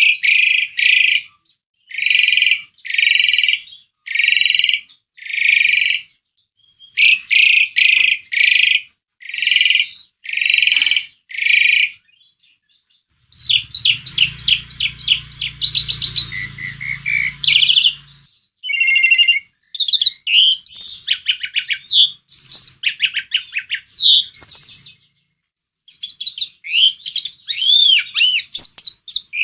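Asian pied starling (jalak suren) calling and singing. It starts with a series of harsh, repeated notes about one a second, then breaks into rapid chattering over a low hum midway, and ends with varied whistles and chatter.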